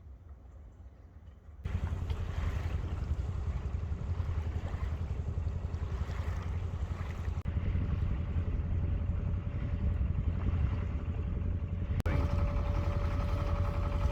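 Sailboat under way: a steady low rumble and rushing noise that starts abruptly a couple of seconds in, with a faint steady whine in the later part.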